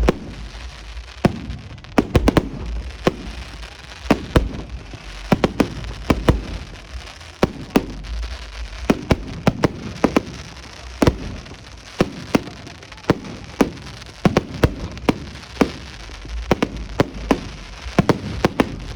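A fireworks display: many sharp bangs and crackling pops going off at irregular intervals, several a second at times, over a constant low rumble.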